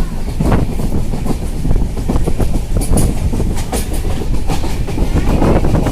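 Moving train: a steady rumble with wheels clicking and clattering over the rails.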